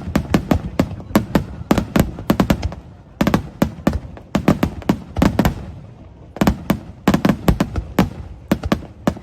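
Fireworks bursting in rapid volleys of sharp bangs, several a second, in three clusters with brief lulls between.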